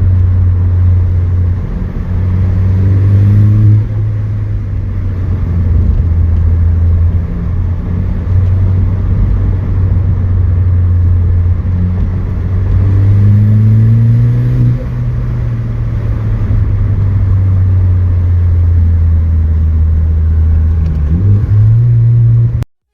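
Ford Focus ST with an MBRP cat-back exhaust running under way: a steady low exhaust drone, with the engine note rising under acceleration twice, a few seconds in and again about halfway through. The sound cuts off abruptly near the end.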